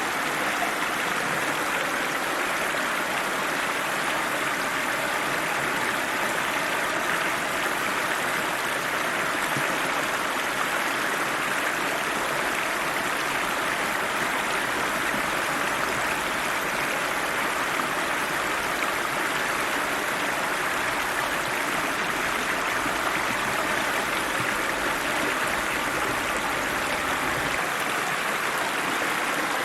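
Icy cold river flowing over rocks: a steady, even rush of water.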